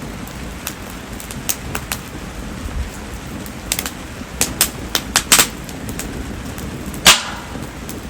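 Bonfire of mayumi (spindle tree) firewood popping: scattered sharp pops, several close together in the middle and one loud pop near the end, over a steady hiss of falling rain.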